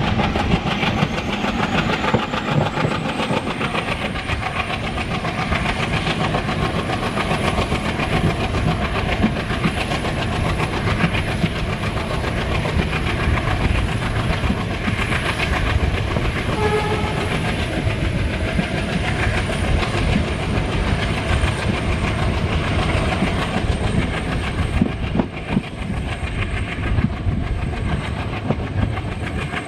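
Diesel-hauled express passenger train running at speed, heard from a coach. The wheels clack over rail joints amid a steady rush of running noise, and a thin high whine rises in pitch over the first few seconds, then holds.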